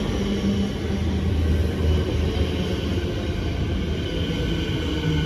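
Siemens Nexas electric suburban train arriving at a platform: a steady low rumble of the train running in, with a faint high whine over it.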